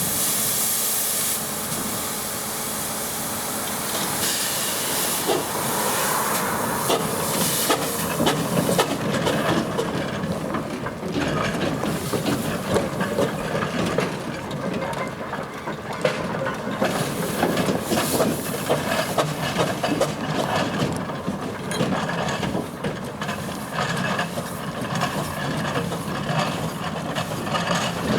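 Steam traction engine hissing steam loudly in the first second or so and again from about four to eight seconds in, then running with a dense, rapid clatter of beats.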